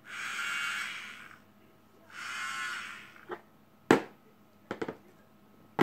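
Two whirring bursts of about a second each from the spinning plastic part of a Play-Doh dentist toy set, followed by a few sharp plastic clicks and taps.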